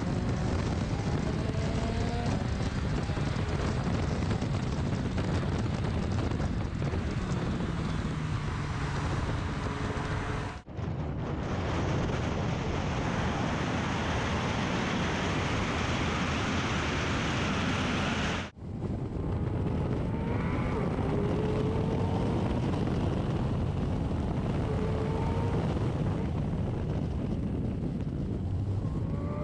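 Porsche 718 Cayman GT4 RS's naturally aspirated flat-six driving at speed, its pitch climbing and dropping as it revs, over heavy wind and road noise. The sound drops out briefly twice.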